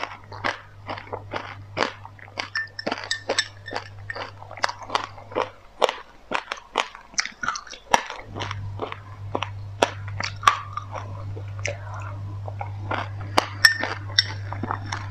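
Mouthful of white sesame seeds and passionfruit pulp being chewed: a fast run of sharp crunches and clicks, about three or four a second.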